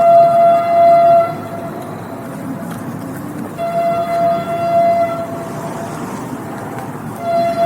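Train horn sounding three steady single-pitch blasts: one as the sound begins, one in the middle and one starting near the end. The train's running rumble continues underneath.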